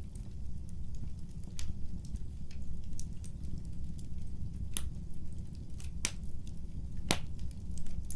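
Wood fire burning with a steady low rumble and irregular crackles and snaps, a few louder pops in the second half.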